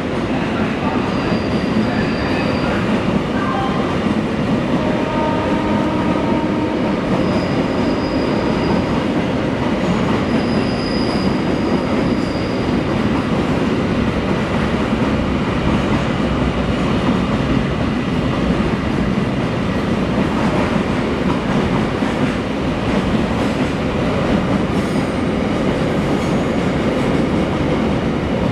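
Container freight train wagons rushing past at speed: a steady, loud rumble and rattle of wheels on rail, with a few brief high squeals.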